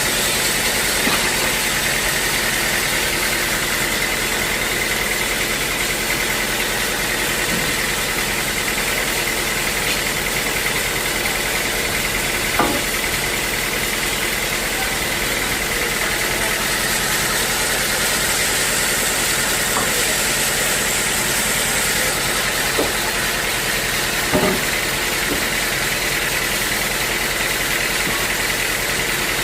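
Sawmill machinery running steadily with a constant high whine, and a few single knocks now and then.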